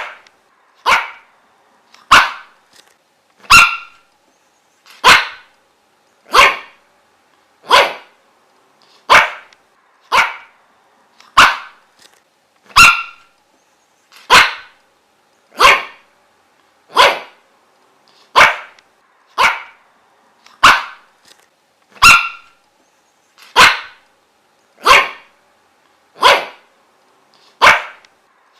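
A dog barking single, sharp barks at an even pace, about one every one and a half seconds.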